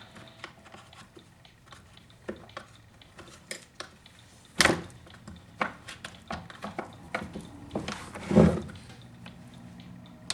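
Irregular clicks, clinks and knocks of small parts and tools being handled on a workbench, with a louder knock about four and a half seconds in and a heavier thump near the end.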